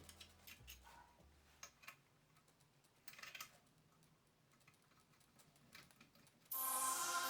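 Faint scattered clicks and light taps, then music starts suddenly near the end.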